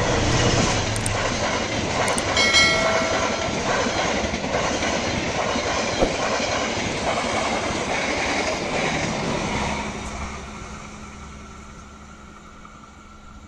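A passenger train hauled by a diesel-electric locomotive passes close by, its wheels clattering on the rails, with a brief high tone about two and a half seconds in. The sound fades away steadily from about ten seconds in as the train recedes.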